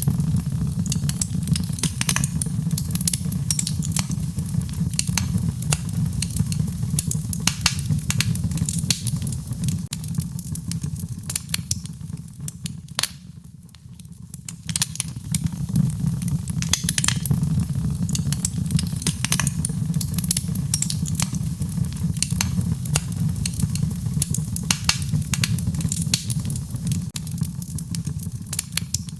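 Wood fire in a fireplace crackling and popping irregularly over a steady low rumble. The crackles thin out and the sound dips briefly about halfway through.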